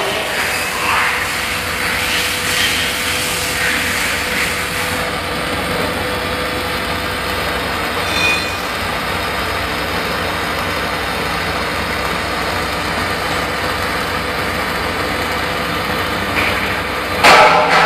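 Steady machine hum and hiss from an automatic circular seam argon arc (TIG) welding machine running.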